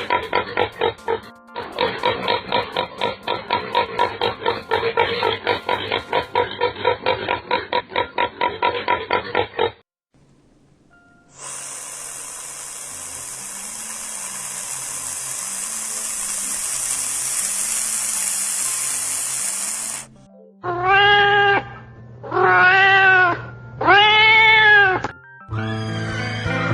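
A run of animal sound clips over soft background music: fast, even grunting pulses, about five a second, for nearly ten seconds; then a long hissing noise; then three separate rising-and-falling calls near the end.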